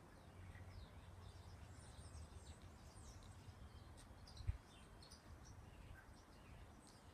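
Faint bird chirps over a low outdoor rumble, with a single knock about four and a half seconds in.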